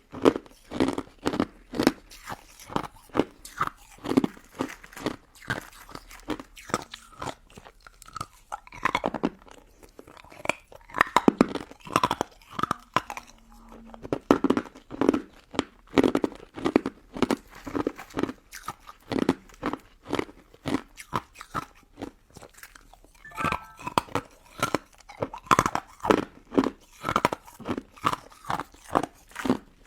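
Crunchy bites and chewing of a pink crystal snow ice dessert, a steady run of sharp crisp crunches in a regular chewing rhythm.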